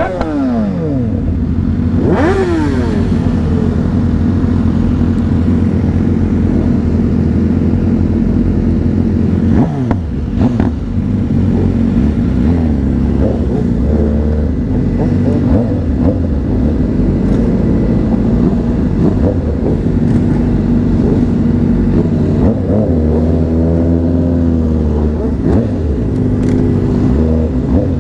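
Honda CBR600RR sport bike's inline-four engine running under way. Its revs drop sharply at the start, about two seconds in and about ten seconds in, and waver up and down near the end.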